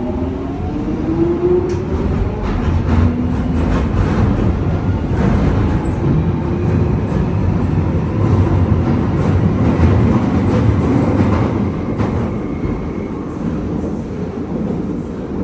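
London Underground Jubilee line train running, heard from inside the carriage. The motors' rising whine of acceleration fades out in the first second or so, giving way to a steady low rumble with irregular clicks from the wheels and track.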